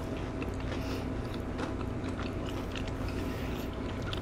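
Close-up chewing of crispy fried catfish, with many small crunches from the cornmeal fish-fry coating as it is bitten and chewed, over a low steady hum.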